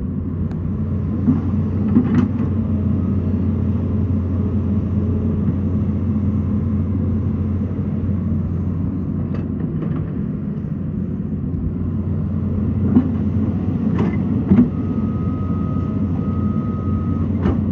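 Excavator's diesel engine running steadily, with a few sharp knocks, one about two seconds in and a cluster about three-quarters through. A thin high steady tone sounds briefly near the end.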